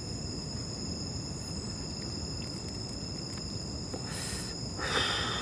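Outdoor night ambience: a steady low rumble under a thin, steady high insect-like whine, with two short rustling bursts about four and five seconds in.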